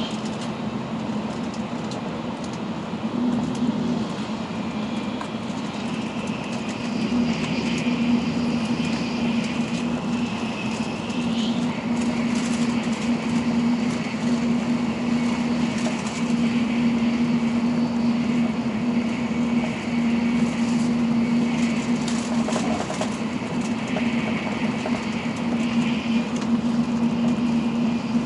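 An N700-series Shinkansen running at speed, heard inside the passenger cabin: a continuous rushing rumble with a steady low hum and a fainter high whine. The hum grows louder about a quarter of the way through.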